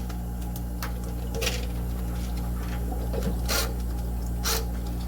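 Steady low hum with a handful of short clicks and rustles from parts being handled during work on an electric water heater.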